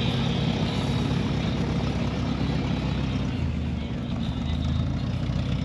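A car engine running steadily, a low hum over a haze of noise.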